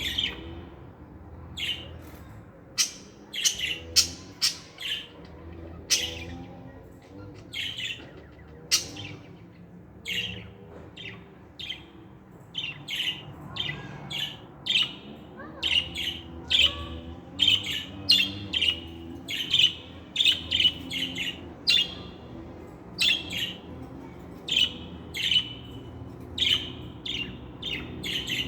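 Pet budgerigars chirping, with many short sharp chirps and squawks coming in quick irregular runs.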